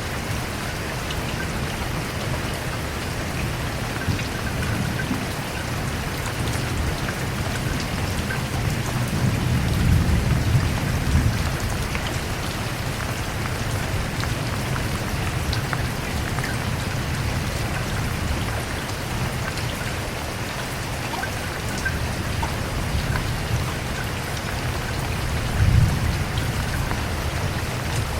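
Steady rain falling on a surface, an even hiss with scattered drop patter. Low thunder rumbles swell up about a third of the way in and again near the end.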